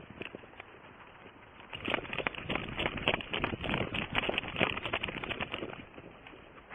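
Footsteps crunching: quick crunchy steps that turn loud about two seconds in and fade near the end.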